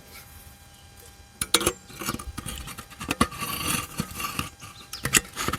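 Camping gear being handled and unpacked: rustling with a few sharp knocks and light clinks of metal cookware.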